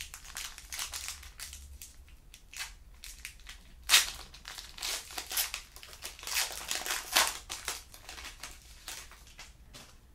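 Foil trading-card pack wrapper crinkling and being torn open by hand, an irregular run of crackles with the loudest crackle about four seconds in.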